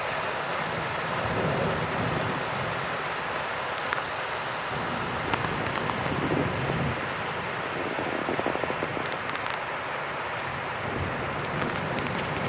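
Heavy rain falling steadily in a dense, even hiss with scattered sharp drop ticks, and a low rumble that swells a few times.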